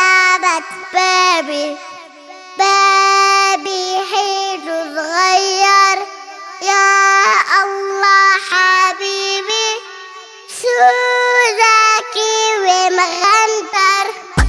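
A child singing an Arabic children's song, a melody of held notes with short breaks between phrases.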